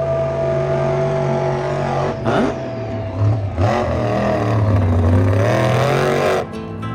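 Monster-truck engine revving: a steady drone that rises and wavers in pitch through the middle, over background music.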